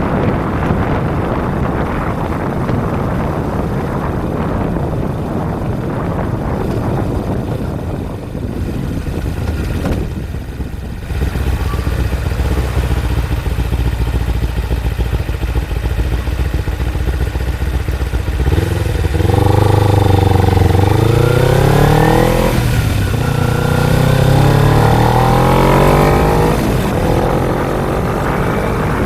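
Kawasaki Ninja 250's parallel-twin engine running under heavy wind noise at speed. After easing off about ten seconds in, it accelerates, rising in pitch through one gear, dropping at a shift, and rising through the next before settling.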